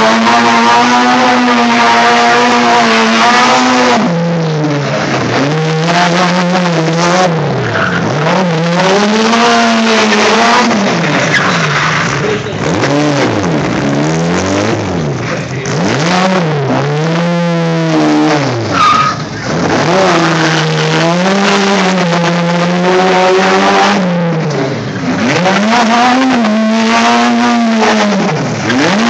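Tuned Autobianchi A112's small four-cylinder engine revving hard and dropping back again and again as the car is flung through a tight cone course, its pitch rising and falling every second or two.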